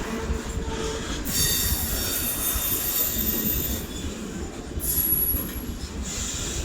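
Train wheels squealing against the rails over the steady low rumble of a passing train. A shrill multi-tone squeal sets in about a second in and lasts a few seconds, followed by a brief higher squeal.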